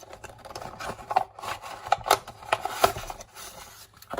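Fingerboard truck packaging being opened by hand: irregular rubbing, scraping and rustling with scattered sharp clicks.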